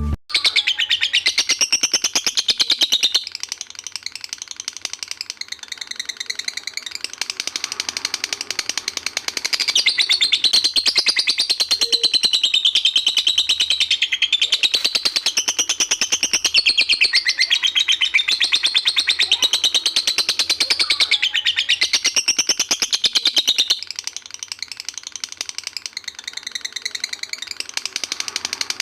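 Lovebird singing its long 'ngekek' song: an unbroken, very fast chattering trill of high notes. It is louder for the first few seconds, softer for a stretch, then louder again from about a third of the way in until near the end.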